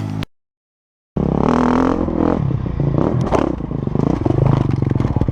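Motocross dirt bike engine revving in a series of blips, rising and falling in pitch. Near the end it settles to a rapid, even chug at low revs.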